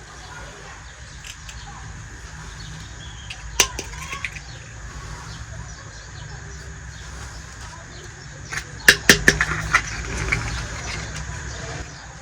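Small objects being handled on a tabletop: a sharp click a few seconds in and a quick cluster of clicks and taps near the end, over a steady low hum.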